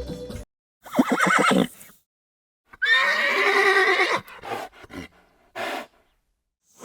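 Horse neighing: a short, wavering whinny about a second in, a longer whinny around three seconds in, then a few short bursts.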